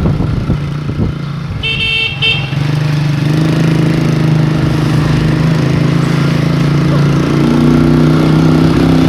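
A vehicle horn toots briefly about two seconds in, then a motor vehicle's engine runs steadily.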